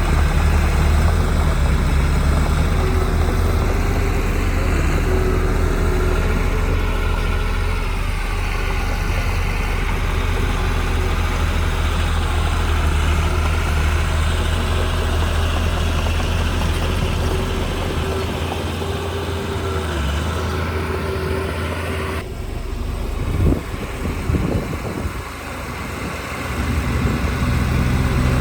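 Diesel engines of heavy earthmoving machinery, a bulldozer and dump truck, running steadily with a faint steady whine above the low hum. About three quarters of the way through the sound changes abruptly, followed by a few short knocks.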